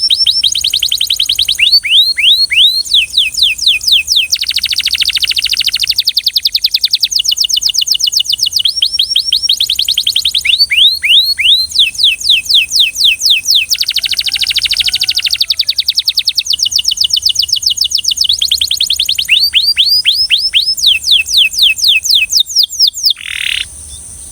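Belgian canary singing a long, loud song of fast rolling trills: phrase after phrase of rapidly repeated high sweeping notes, the pattern changing every second or two. The song stops about a second before the end.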